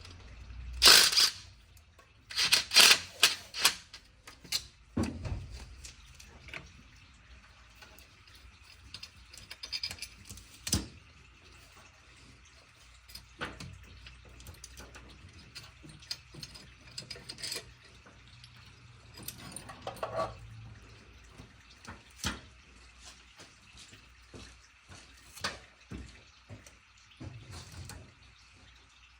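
Intermittent clinks, clicks and knocks of hand tools and metal engine parts being handled, with a cluster of loud knocks in the first few seconds and scattered ones after.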